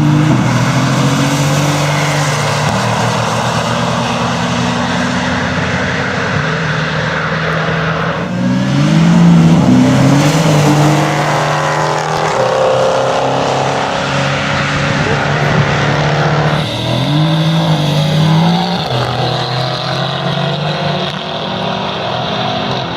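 Mercedes-AMG GT S's twin-turbo 4.0-litre V8 revving up, its pitch climbing and then holding steady, three times over. The sound changes abruptly about 8 and 17 seconds in.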